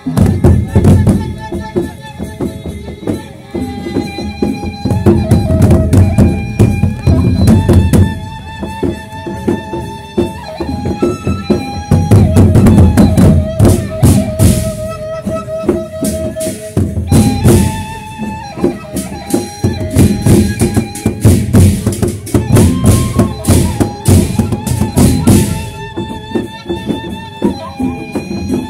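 Sasak gendang beleq ensemble playing: dense, fast drumming and metallic percussion under a wavering melody line.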